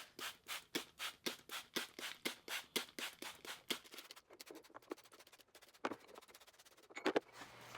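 A quick, even run of light taps or scratches, about four to five a second, that fades after a few seconds, followed by a few scattered clicks near the end.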